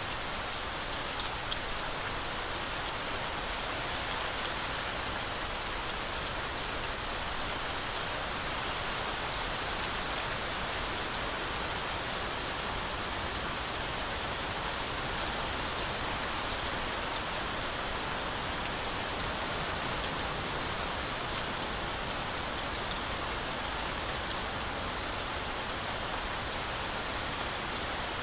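Heavy rain falling steadily through forest trees: a dense, even hiss with a few faint ticks of single drops near the start.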